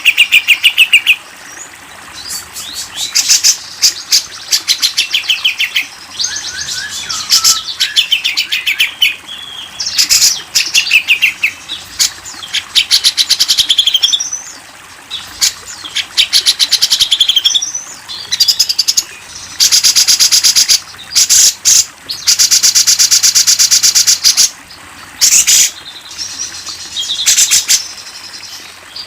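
Recorded wild bird song: bursts of rapid, repeated chattering and trilling notes, with two long, fast-pulsed trills a little past the middle.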